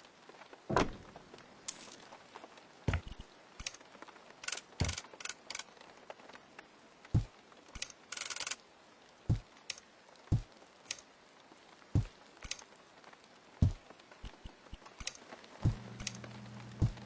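Irregular knocks, taps and clicks of hard objects being handled, with a short scraping rustle about eight seconds in. A low steady hum starts shortly before the end.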